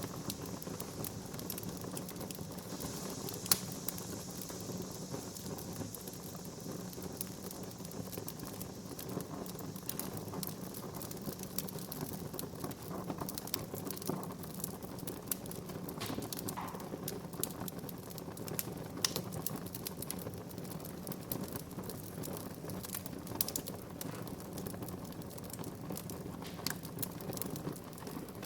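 Wood fire crackling, with frequent small pops and snaps over a steady low rush of flames; one sharp pop about three and a half seconds in is the loudest.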